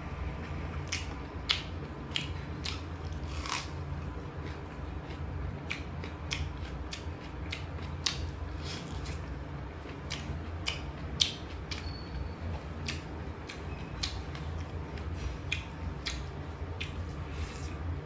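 Close-up mukbang eating: irregular wet clicks and smacks of a person chewing and working food with the fingers, about one every half second to second, over a steady low hum.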